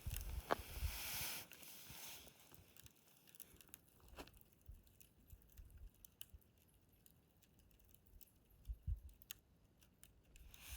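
Wood fire burning low, with scattered sharp crackles and pops from the embers. A louder hiss comes in the first couple of seconds, and a soft thump near the end.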